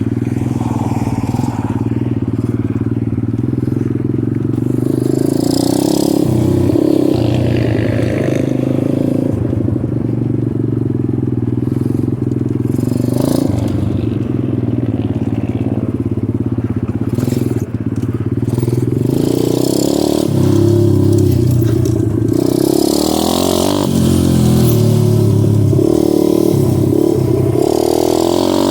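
Dirt bike engine running while riding a trail, its pitch rising and falling again and again with the throttle, with several bursts of hiss over it.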